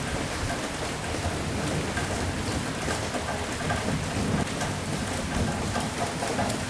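Steady heavy rain falling, with a low rumble of thunder building about halfway through.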